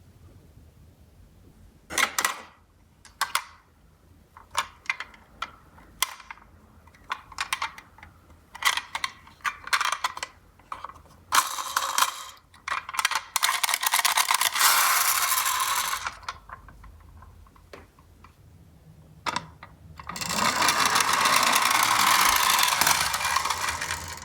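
Die-cast toy minicars clicking and clacking as they are handled. Then come two stretches of rolling rattle, each about four seconds long, near the middle and toward the end, as the cars run down a cardboard slope.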